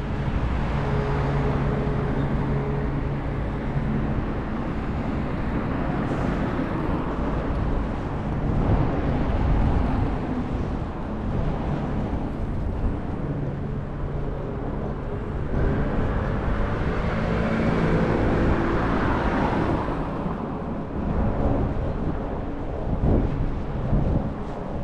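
City street traffic: vehicle engines hum past, once near the start and again through the middle, over a steady rush of wind on the microphone.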